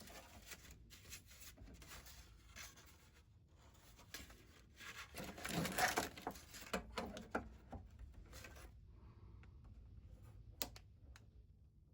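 Irregular scraping and rubbing strokes, louder about halfway through, then stopping, with a single sharp click near the end.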